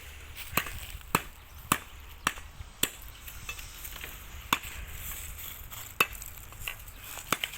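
A knife chopping on a cutting board: sharp single chops, five at an even pace of about two a second, then a few more spaced out irregularly.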